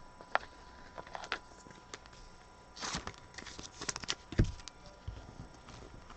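Trading cards being handled and flipped through: light clicks and short rustles of card stock, with a soft low thump a little over four seconds in.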